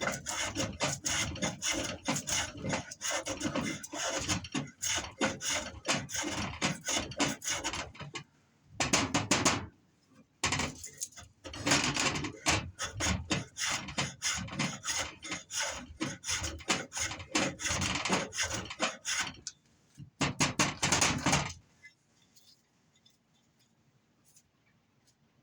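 A blade scraping curls off a stick of fresh fatwood, in runs of quick rasping strokes. There are short breaks about 8 and 20 seconds in, and the scraping stops about 22 seconds in.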